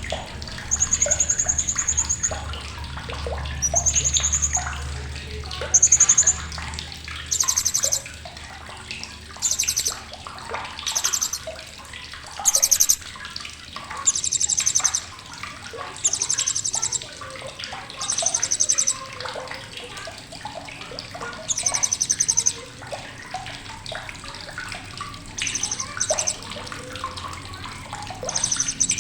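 Blue-crowned hanging parrot (srindit) calling in short, sharp high-pitched bursts every second or two: thin whistled notes at first, then rapid buzzy chattering trills. A low hum sits underneath for the first few seconds.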